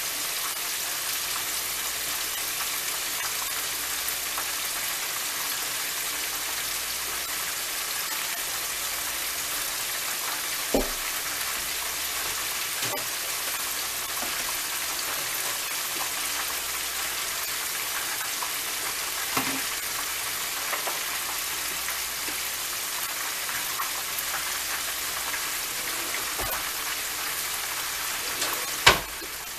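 Chicken wings deep-frying in oil in a pot: a steady sizzle with a few sharp pops scattered through it, the loudest near the end.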